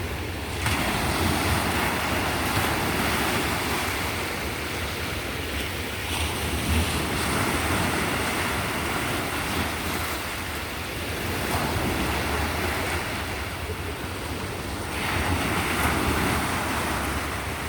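Sea surf: waves breaking and washing up the shore in a hiss that swells and eases every few seconds.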